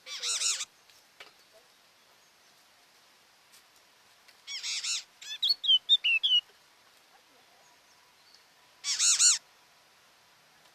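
A bird calling: three loud calls of about half a second each, at the start, just before the middle and near the end, with a quick run of short whistled notes just after the middle.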